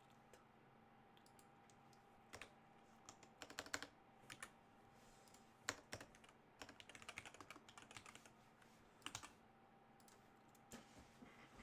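Typing on a computer keyboard in short, irregular bursts of key clicks, with a quicker run of keystrokes about seven seconds in. A faint steady hum runs underneath.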